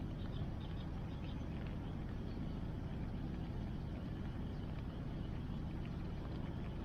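Steady low rush of a river flowing, with a scattering of small faint crackles from a wood bonfire.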